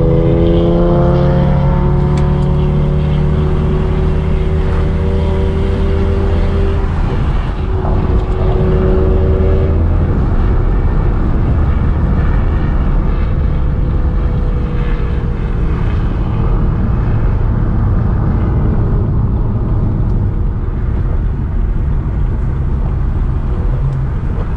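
Car engine pulling hard under acceleration, its pitch rising over the first second and then holding, over steady road noise. A second burst of acceleration comes about eight seconds in, after which the engine note drops away to a quieter cruise.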